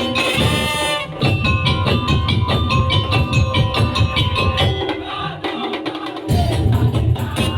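Madurese daul (tongtong) percussion ensemble playing an arrangement: heavy pounding drums and wooden percussion under a bright melody line. The low drums drop out about five seconds in and come back a second or so later.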